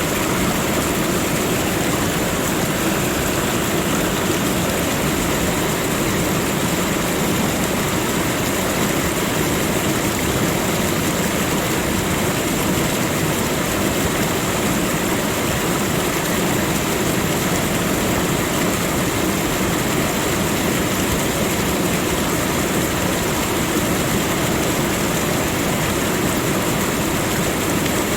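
Steady, unbroken rushing of flowing water, with an even high hiss held throughout and no separate events.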